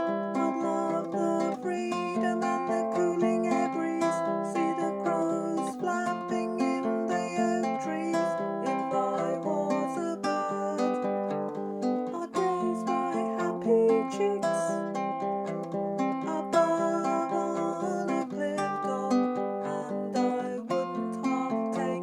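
Baritone ukulele played as a steady run of plucked and strummed chords.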